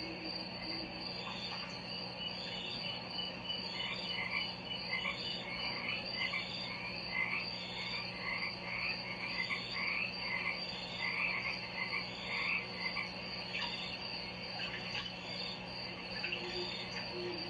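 Short chirping animal calls, repeating about once a second, over a steady high drone and a low steady hum.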